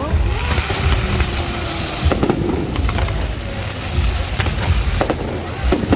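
Aerial fireworks going off: sharp bangs every second or so over a deep, continuous booming rumble, with a hissing crackle in the first two seconds.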